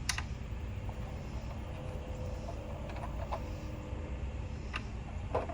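A few light clicks and taps of metal tools being handled on a table saw, the wrench work of taking off the arbor nut that holds the blade, over a steady low rumble. The sharpest click comes right at the start.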